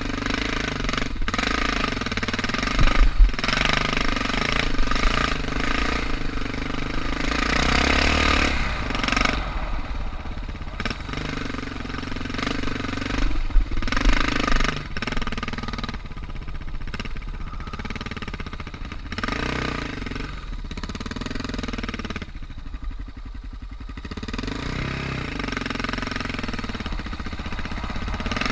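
Suzuki DR650's single-cylinder four-stroke engine running at low revs under way, its pitch rising and falling with the throttle, with a few sharp knocks along the way.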